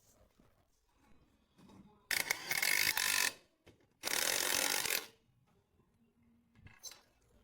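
Two loud bursts of hissing, each about a second long and a second apart, with faint clicks before and after.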